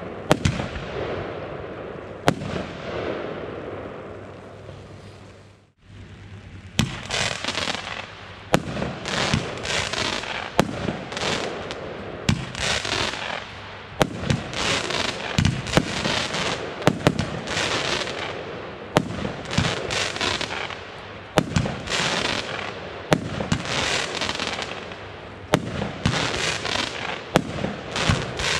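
Consumer fireworks going off outdoors: sharp bangs, each followed by a burst of crackling that fades out. The sound drops out abruptly about six seconds in. A new firework battery then starts firing shot after shot, a bang and a crackle every second or two.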